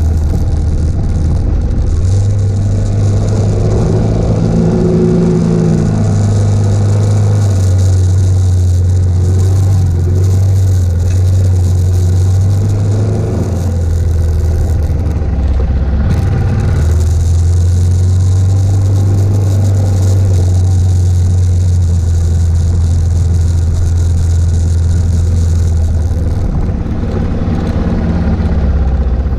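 Suzuki DR650's single-cylinder four-stroke engine running under way on a gravel track, with wind rushing over the microphone. About halfway through, the engine note drops and the wind noise eases as the bike slows, then both pick up again.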